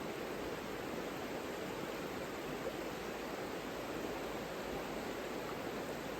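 Savica river flowing: a steady, even rush of water.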